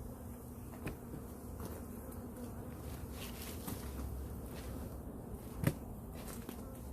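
Italian honeybees buzzing steadily around an opened hive, with scattered light clicks and one sharper knock a little before the end.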